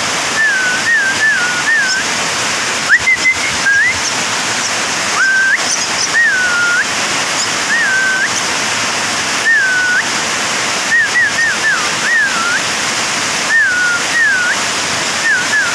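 A young Javan myna (jalak kebo) chick calling: short whistled chirps, each a quick dipping note, repeated one or two a second in small groups. A steady loud hiss runs underneath.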